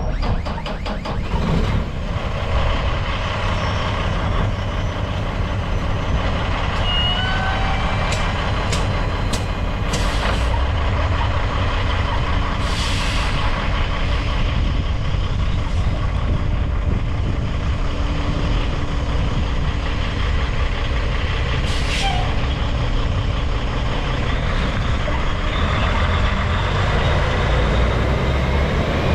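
The diesel engine of a 2011 Peterbilt 386 tandem-axle sleeper tractor running steadily at an even speed. A few sharp clicks sound about a third of the way in, and short hisses of air come just under halfway through and again about three-quarters of the way through.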